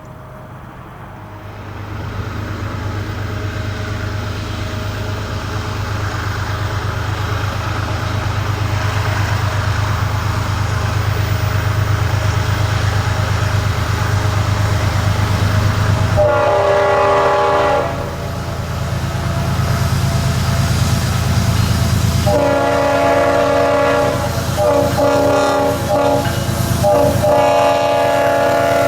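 Diesel freight locomotive approaching, its low engine drone and rolling noise growing steadily louder. Its multi-chime air horn sounds one long blast about halfway through, then, after a few seconds, a string of blasts that follow close on one another.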